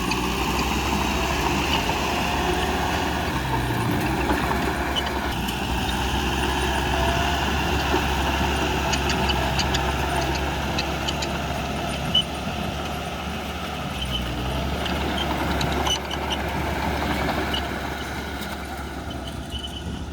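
Heavy diesel earthmoving machinery running steadily at work, with scattered light clanks and one sharp knock about twelve seconds in.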